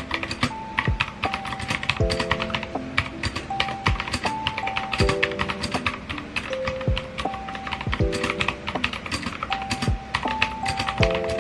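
Quick, irregular typing on a computer keyboard, many clicks in a row, over soft background music with held chords.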